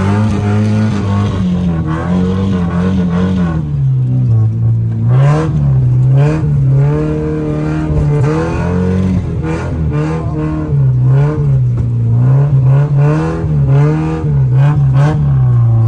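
Nissan 240SX engine heard from inside the cabin while driving, revving up and dropping back over and over, its pitch rising and falling every second or two as the throttle goes on and off.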